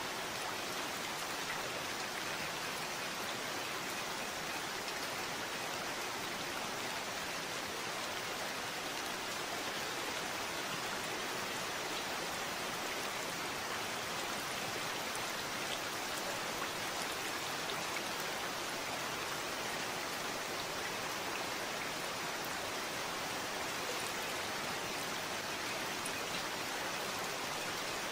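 Steady rainfall, a constant even hiss with many small drops pattering.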